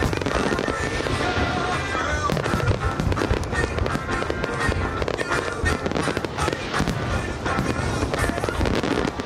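Aerial fireworks display going off: many sharp bangs and crackles in quick, irregular succession, with music playing underneath.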